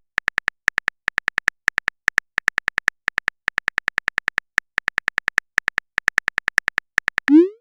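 Phone keyboard typing sound effect: a fast, uneven run of short clicky ticks, several a second, then a short rising swoop near the end.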